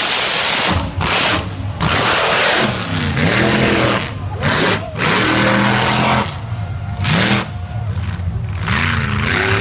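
Ford mega truck's engine revving hard under load on a mud pass, the pitch climbing and falling several times with brief lifts off the throttle, over loud rushing noise.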